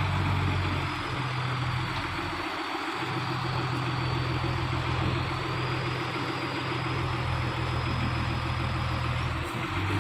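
Heavy truck's diesel engine idling steadily, its low note dipping briefly about two and a half seconds in.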